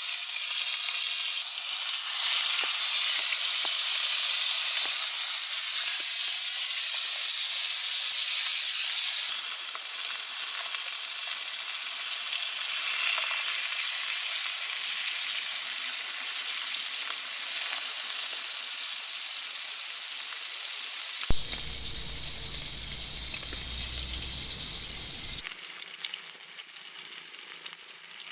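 Food frying in a hot pan, a steady sizzle. About 21 seconds in it is broken for about four seconds by a low rumble, then the sizzling goes on a little quieter.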